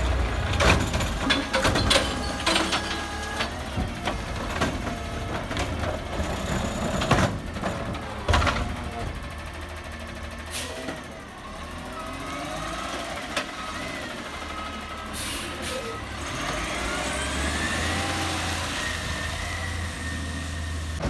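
A CNG Peterbilt 320 garbage truck at work, its engine rumbling low under a run of sharp clanks and bangs in the first half. Two short air hisses follow, then a rising mechanical whine near the end.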